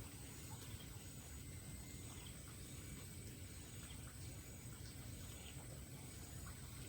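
Faint outdoor background of insects: a steady high-pitched drone with short chirps repeating about once a second, over a low rumble.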